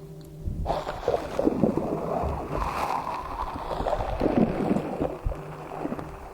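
Slime being squished, a wet squelching with many small crackles and pops, starting within the first second and running on steadily.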